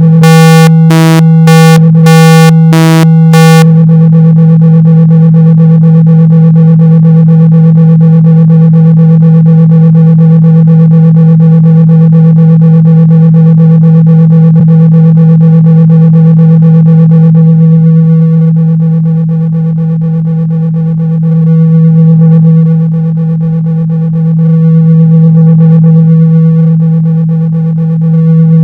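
Synthesized low tone of about 162 Hz, played loud to vibrate water and dust out of a phone speaker. For the first few seconds it pulses in short beeps about twice a second, then it holds steady, and later it swells and dips in level every few seconds.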